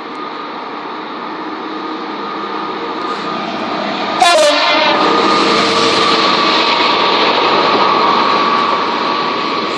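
Class 66 diesel-electric freight locomotive, with its two-stroke V12 engine, running louder as it draws near. It sounds its two-tone horn with a sudden loud blast about four seconds in.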